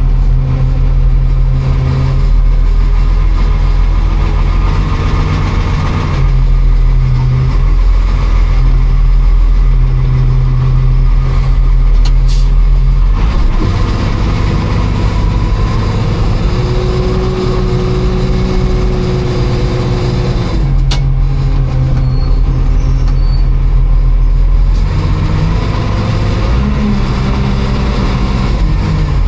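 A motor vehicle's engine running steadily under way, its note shifting several times as the load or gear changes.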